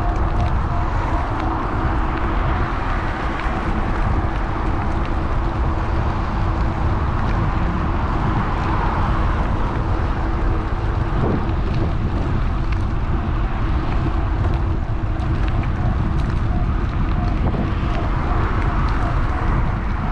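Wind rushing over the microphone of a GoPro riding on a moving electric bike, mixed with tyre and road noise, with a faint steady hum underneath.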